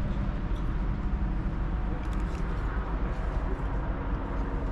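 Steady low mechanical rumble with a constant droning hum, with a few faint light clicks about two seconds in.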